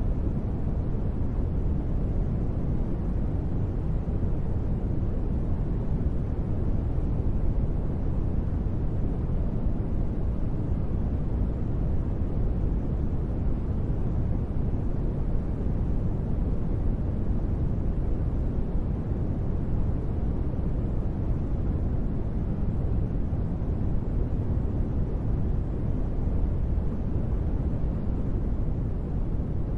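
Steady, unchanging low noise ambience, deep and rumbling with most of its weight in the bass and only a faint hiss on top: synthesized noise used as a deep-space sleep ambience.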